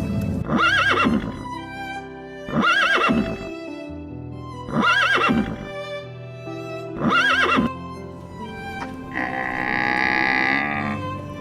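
Horse whinnying four times in a row, each call short and arching up and down in pitch, about two seconds apart, over background music. Near the end comes a longer, rougher sound of about two seconds.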